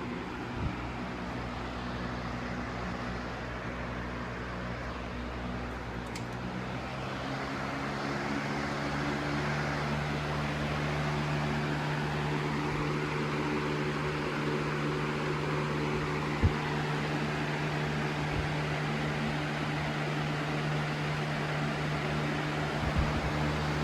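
Box fan running: a steady motor hum under the rush of air from the blades, getting louder about eight seconds in and then holding steady. A single sharp click about sixteen seconds in.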